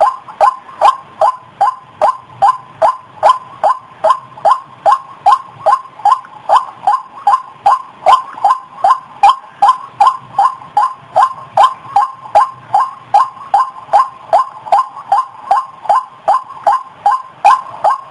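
White-breasted waterhen (ruak-ruak) calling a fast, monotonous run of harsh notes, about two and a half a second, each sliding slightly down in pitch: the bird's repeated 'kruak' call, used as a lure call to draw in other waterhens.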